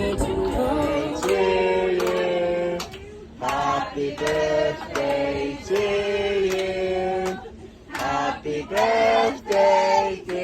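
Voices singing, holding notes in short phrases of a second or two with brief pauses between them.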